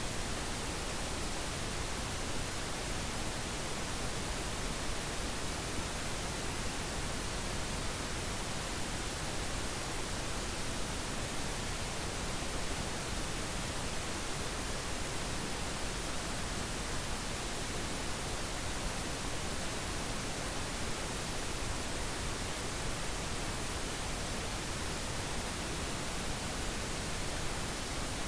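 Steady, unchanging pink noise: an even hiss spread across all pitches, with more weight in the lows than white noise.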